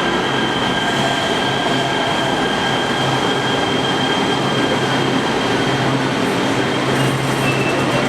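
Subway or light rail train running, a steady rumble with a thin high whine that fades near the end.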